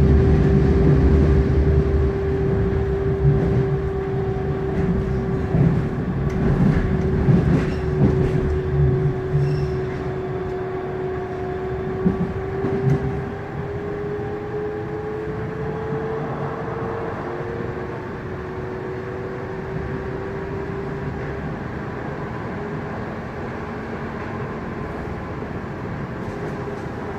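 Frankfurt U-Bahn U8 light-rail train running, heard from inside the car: a steady motor whine over wheel rumble, with a few clicks and knocks in the first several seconds. The whine rises in pitch about halfway through as the rumble eases.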